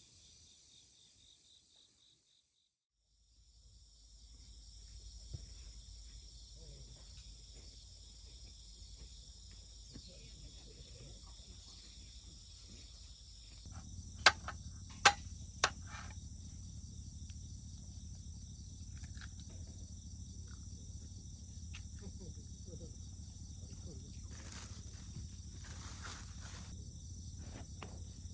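Autumn crickets chirring steadily in several high, even bands, cutting out briefly about two seconds in and then resuming. A low rumble runs underneath, growing stronger about halfway, and three sharp clicks come in quick succession about halfway through.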